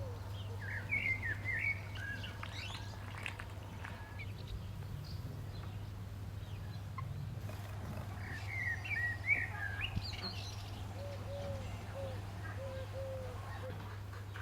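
Songbird singing two short, warbled chirping phrases, about a second in and again about eight seconds in, with a run of about six short, lower calls later on, over a steady low hum.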